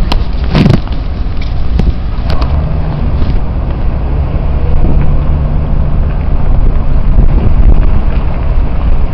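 Steady low rumble of a car driving, heard from inside the cabin, with a faint steady hum in the middle seconds. A thump about half a second in and a couple of light knocks soon after.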